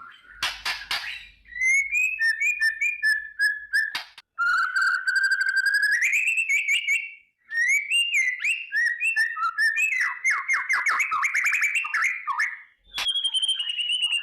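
White-rumped shama singing a long, varied song: a crackling rattle at the start, then clear whistled phrases including a long rising glide, a fast stuttering run of notes past the middle, and a high whistle near the end.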